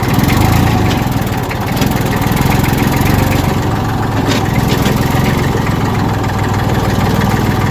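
Massey Ferguson tractor's diesel engine running steadily in second gear, pulling an overloaded trailer up a rise.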